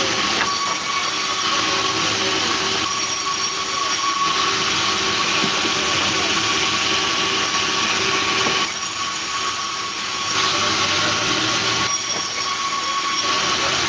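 Sawmill saw running: a steady mechanical noise with a constant high whine, the hiss brightening and easing every few seconds.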